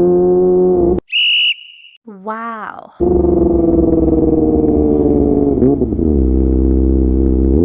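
Kawasaki ZX-25R inline-four with a DX Generation GPR full-system exhaust running at high revs while riding. Its pitch rises slightly and then cuts off abruptly about a second in, and a short high whistle-like tone follows. About three seconds in the engine comes back, its pitch slowly falling, and it turns to a deeper, wavering exhaust note near the end.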